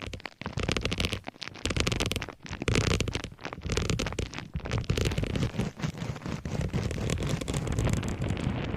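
Close-miked crackling and scratching of an object being handled, a dense, irregular run of small clicks and scrapes.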